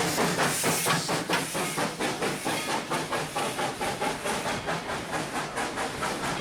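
Steam locomotive chuffing: regular hissing exhaust beats at about three a second.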